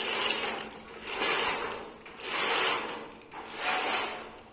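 A window blind's pull mechanism being worked in four even strokes about a second apart, each a rising and falling rasp. The blind has a few frayed threads but runs properly.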